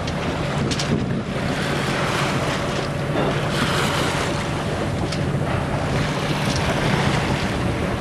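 Wind buffeting the microphone over water rushing and splashing along the hull of a small sailing boat under way, with a few brief sharper splashes.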